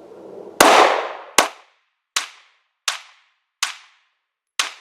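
Glock 43 9mm subcompact pistol firing six shots at a steady pace, about three-quarters of a second apart, the first the loudest.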